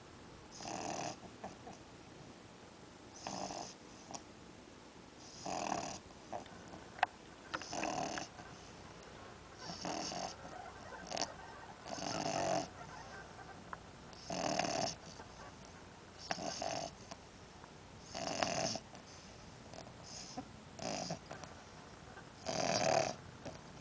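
Miniature English bulldog snoring in its sleep, one snore about every two seconds. A single sharp click about seven seconds in.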